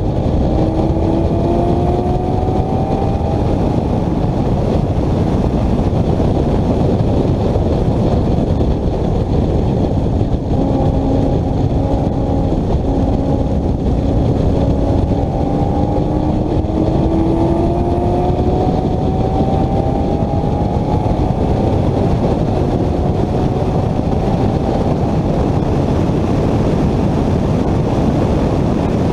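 Vehicle engine pulling hard at high speed, its pitch climbing slowly through a long gear, with a shift around ten seconds in followed by another slow climb, all under a heavy roar of wind and road noise.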